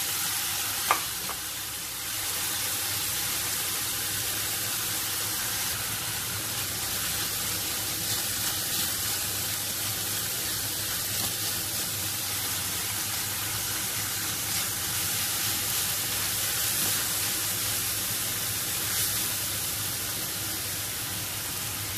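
Minced beef, diced onion and carrot sizzling in oil in a stainless steel frying pan, a steady hiss, with one sharp click about a second in.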